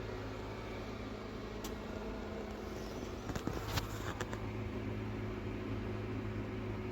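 Steady low mechanical hum with a fan-like whir, broken by a few light clicks and knocks about three to four seconds in.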